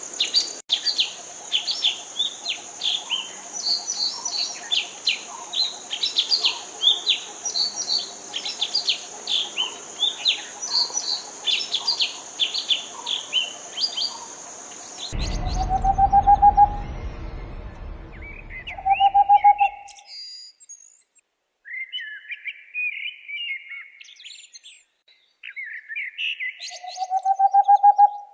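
Forest songbirds chirping in quick, dense phrases over a steady high insect buzz. About halfway through the sound changes to a clear, slightly rising whistled note that comes three times, the last near the end, with sparser chirps between.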